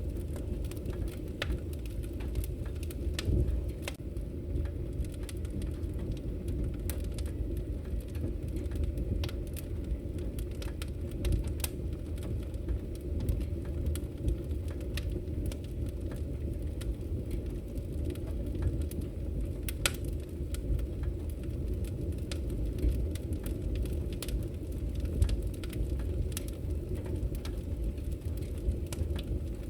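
Wood fire burning in a fireplace: a steady low rumble of flames with scattered sharp crackles and pops from the logs, a few louder pops standing out.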